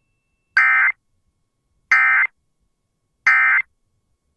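Three short, identical buzzy bursts of Emergency Alert System SAME data tones from a NOAA Weather Radio broadcast, evenly spaced about a second apart. This is the end-of-message code that marks the close of a weather warning.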